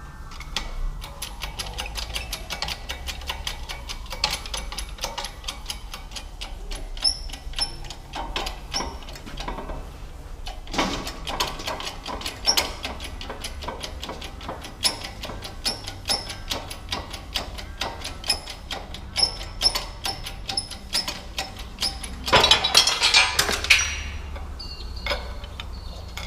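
Hand tools working on metal: a long run of rapid clicks and light metallic taps with a faint ring, and a louder rough, scraping burst near the end.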